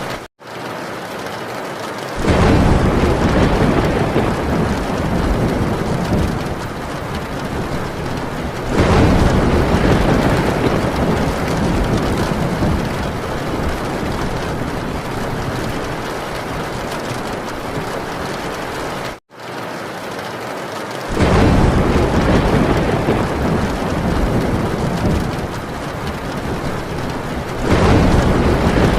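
Heavy rain drumming steadily on a metal tin roof, with thunder rumbling in four long, deep swells. The sound drops out for an instant twice.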